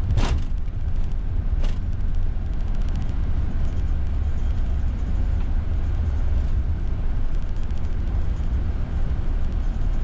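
Boeing 747-400 freighter on its landing rollout, heard from the flight deck: a steady low rumble of engines in reverse thrust and wheels on the runway as the jet decelerates. A short falling tone sounds just after the start and a single click about two seconds in.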